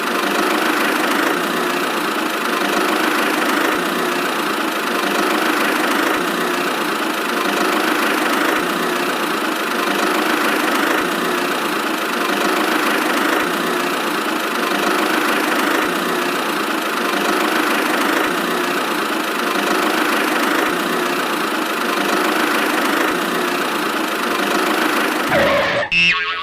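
Miniature DIY toy tractor running steadily with a small, engine-like drone, cutting off abruptly near the end.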